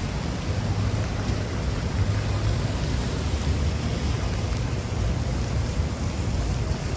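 Steady rain with wind, and a low, uneven rumble of wind buffeting the microphone.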